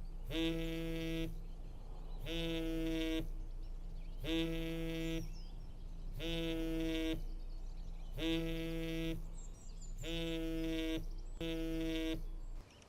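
A mobile phone buzzing on vibrate: seven identical buzzes about two seconds apart, each under a second long, then it stops.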